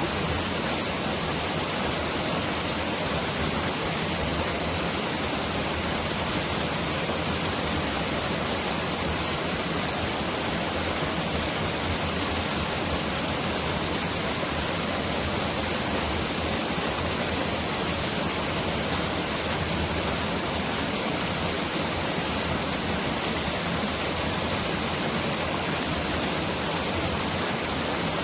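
Mountain valley stream flowing over rocks: a steady, unbroken rush of water, much like pouring heavy rain.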